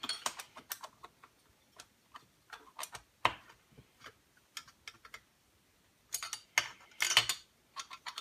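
Irregular light clicks and taps from a hand tool and parts as screws are tightened back down on a Husqvarna 181 chainsaw. There is a dense cluster of clicks about six to seven seconds in.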